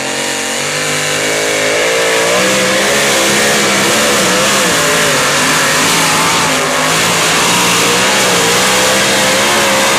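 Pulling tractor's diesel engine running flat out under load as it drags the weight sled, its pitch wavering up and down with the load.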